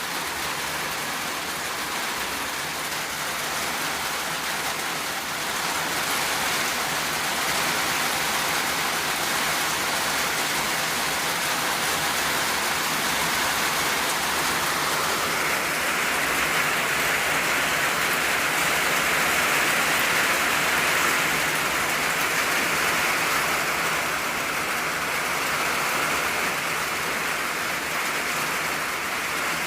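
Steady rain drumming on an old tin roof, a dense patter that swells a little in strength partway through and eases slightly near the end.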